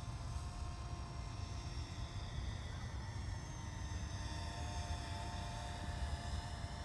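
Faint whine of a Parrot Anafi quadcopter's motors flying manual orbits, its pitch drifting slowly up and down, over a steady low rumble.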